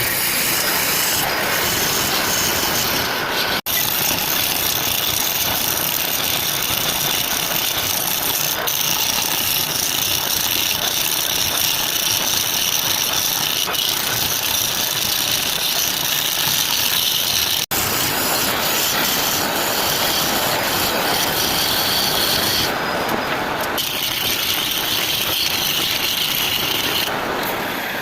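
Power tool grinding and sanding wood: a steady motor whine over an abrasive rasping, with two brief dropouts.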